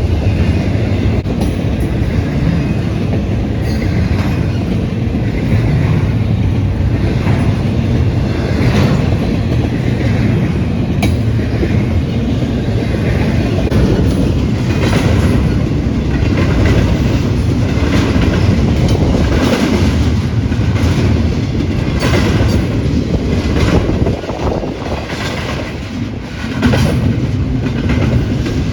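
A train rolling past with a steady rumble and the clickety-clack of wheels over rail joints, the clicks coming more often in the second half.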